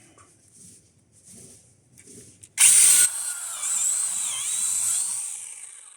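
A TPLC S07A battery chainsaw with a brushless motor comes on abruptly about two and a half seconds in and cuts into a tree trunk, making the second cut of a felling notch. It gives a high, wavering whine under load that fades away near the end. Before it there are only a few faint short sounds.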